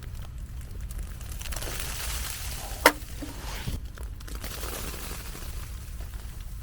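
Wood campfire crackling, with one sharp loud pop about three seconds in.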